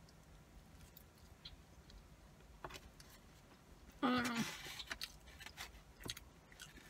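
Quiet chewing of a mouthful of fries, with scattered faint clicks of a plastic fork against a foam takeout container. About four seconds in comes a short hum of voice.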